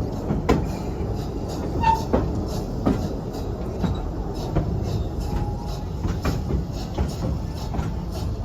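Serengeti Express park train rolling along its track: a steady low rumble with irregular clicks and clacks from the wheels over the rail joints, and a short squeak about two seconds in.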